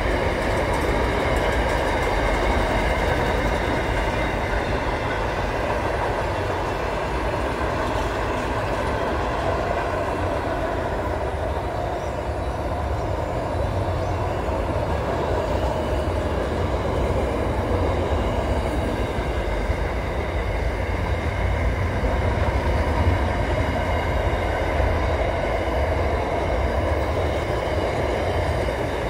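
Container freight train wagons rolling past at speed over a rail bridge: a steady, continuous rumble and rattle of wheels on the rails.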